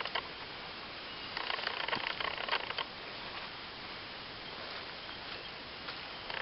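Steady rainforest background hiss with a faint high insect drone, and a few small rustles and clicks of handling between about one and a half and three seconds in.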